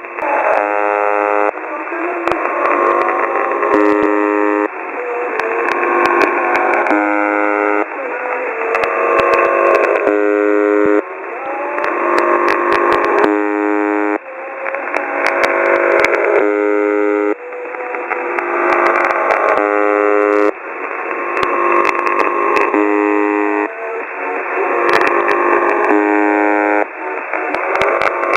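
Shortwave receiver audio from a software-defined radio near the Buzzer frequency, carrying a spectrum-painted image message. A garbled, warbling noise alternates with about a second of many steady tones sounding together, in a cycle that repeats about every three seconds, with crackles of static throughout.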